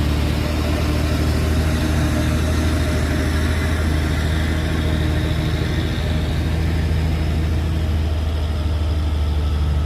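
Truck engine running steadily, a low even hum that holds the same pitch throughout.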